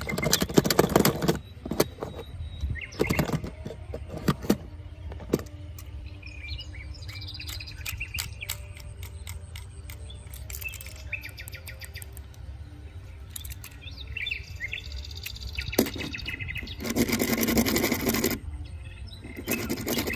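Birds chirping, with scattered sharp clicks and knocks and two longer bursts of rustling noise, the first at the start and the second near the end.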